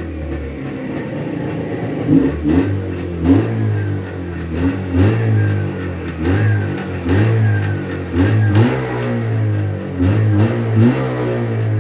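Jawa 634 two-stroke parallel-twin engine running and being revved in quick repeated throttle blips, the pitch rising and dropping back less than a second apart. The owner presents it as running perfectly, with a quiet piston group after the rebuild.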